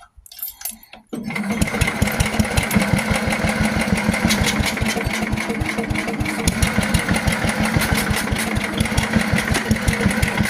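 Cold 1968 Sears SS12 garden tractor engine on a hard start, cranked by its starter-generator. About a second in, after a moment of near quiet, it turns over with a fast, even chugging and a steady whine, struggling to start in the cold.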